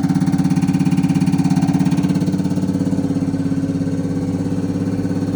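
Common rail injector test bench running its automatic test on a Denso injector: a steady motor-and-pump drone with a fast, even pulsing, easing slightly in level after about three seconds.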